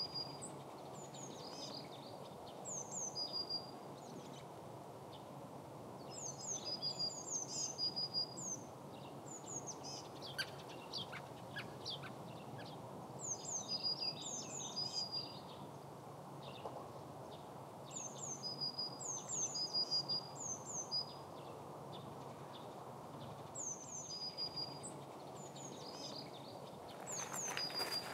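Wild songbirds singing: short phrases of high, quick down-slurred whistles and a brief level note, repeated every few seconds over a steady low outdoor hum. Near the end come a few crunching footsteps on gravel.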